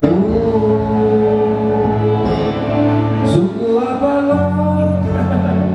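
Live band music with a singer holding long notes that slide up into pitch, over a steady bass.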